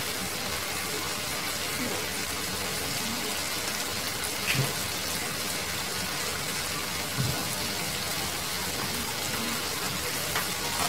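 Okra stir-frying in a frying pan: a steady sizzling hiss with a few small pops.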